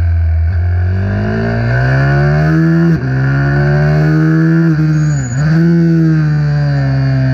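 Racing minibike engine revving up through the gears: the pitch climbs, breaks briefly on an upshift about three seconds in and climbs again, then dips sharply and recovers just after five seconds before holding and slowly easing off.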